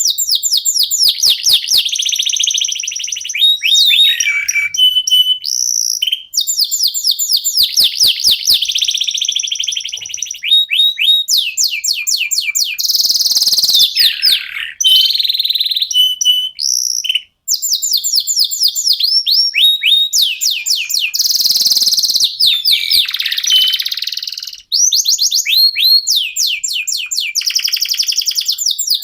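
Domestic canary singing loudly: long runs of fast, evenly repeated trill notes and rolls, mixed with a few held whistled notes, broken by brief pauses a few times.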